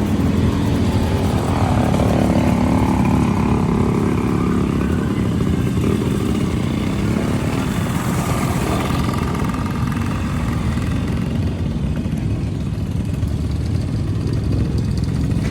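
Motorcycle engine running loudly and steadily, with some shifts in pitch around the middle.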